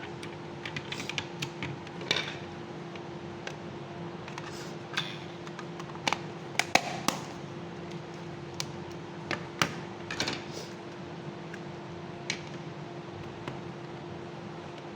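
Scattered sharp clicks and light taps from hands handling a digital multimeter and its parts, irregular and spaced a second or so apart, over a steady hum.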